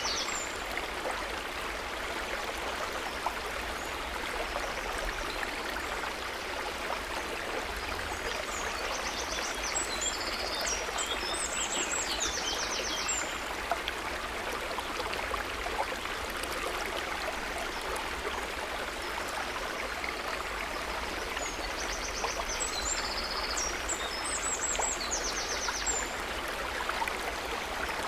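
A river's running water rushing steadily. A bird sings a short, high chirping phrase twice, about ten seconds in and again near the end.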